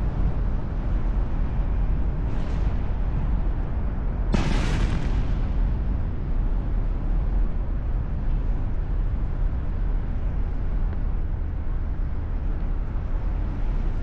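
Firework bangs over a steady low rumble: a faint one about two seconds in, then a loud, sharp one about four seconds in that trails off in a hiss for about a second.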